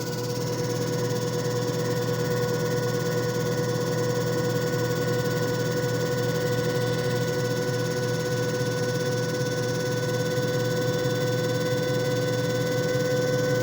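JFJ Easy Pro disc repair machine running: a steady motor hum with a constant whine.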